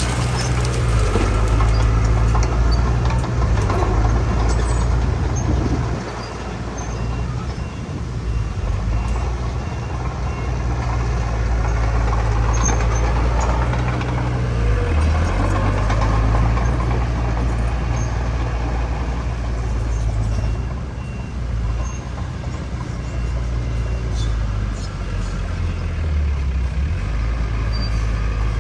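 Heavy diesel earthmoving machinery running continuously at a low drone, its engine pitch dipping briefly twice as the load changes. A faint, evenly pulsing high beep comes and goes in the middle part.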